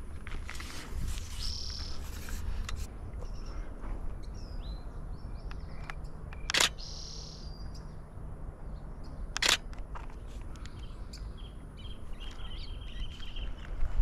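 Outdoor ambience with a few short, high bird calls over a low rumble, broken by two sharp clicks about six and a half and nine and a half seconds in.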